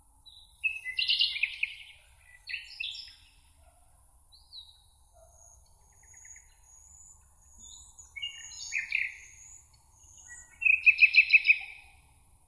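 Songbirds singing: four short bursts of song, the loudest a rapid trill of repeated notes near the end, with faint high thin notes from another bird in between.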